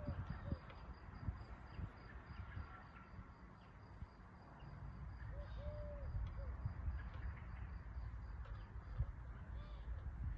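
Outdoor nature ambience: a few short, arched, cooing bird calls over a steady high insect trill, with a low rumble underneath.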